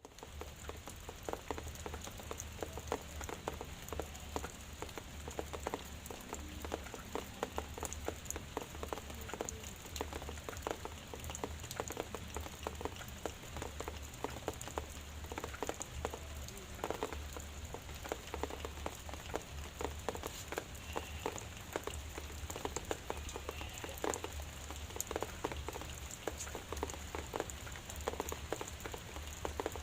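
Drizzle falling, a steady hiss with many irregular drops ticking on a surface, over a steady low hum.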